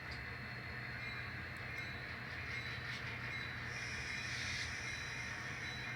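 N scale model locomotive running and pulling freight cars along the track: a steady low hum with a faint higher rattle.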